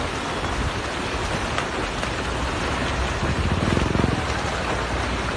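A steady rushing noise, with a low, pulsing, engine-like rumble that swells about three to four seconds in and then eases.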